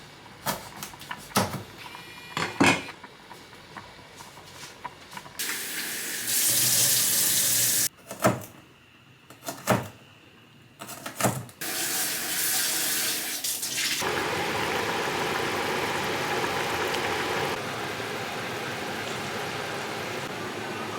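Water running from a tap into a sink: a strong steady gush from about five to eight seconds in and again steadily from about twelve seconds on, with a series of sharp clicks and knocks before and between.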